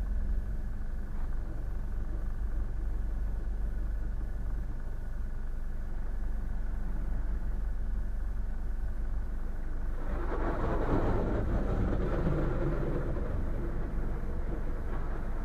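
Boat engine running steadily with a low rumble. About ten seconds in, a louder rushing noise rises over it for about three seconds, then falls back.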